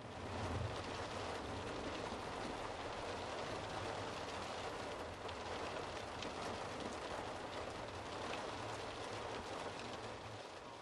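Wind-driven rain pelting a vehicle's windshield and body, heard from inside the vehicle as a steady hiss over a low rumble.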